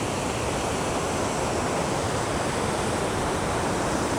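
Large waterfall rushing in a steady, loud roar of falling water.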